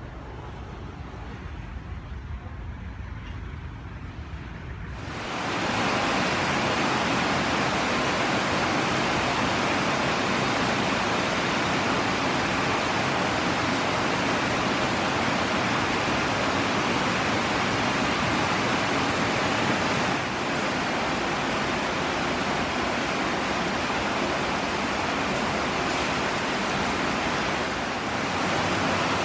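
A low, windy rumble, then about five seconds in heavy rain comes on suddenly as a loud, steady downpour hiss that keeps up without a break.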